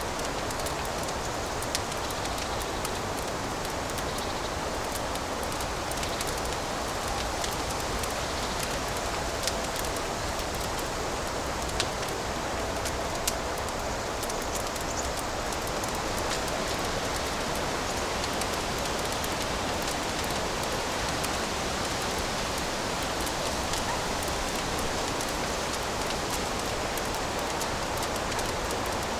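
Fireplace fire crackling: a steady hiss with many small crackles and a few louder pops.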